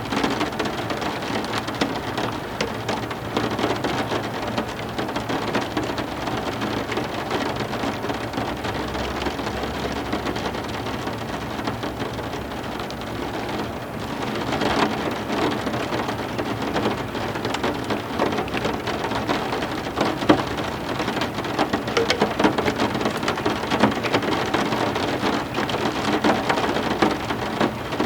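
Steady heavy rain falling on a surface, thick with the patter of drops, with a low rumble of distant thunder about nine seconds in.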